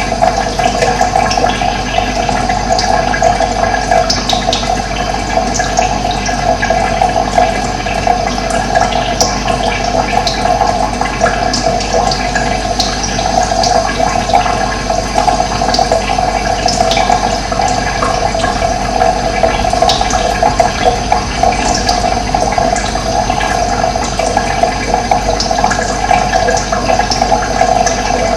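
Running water flowing steadily, an unbroken rush with no pauses.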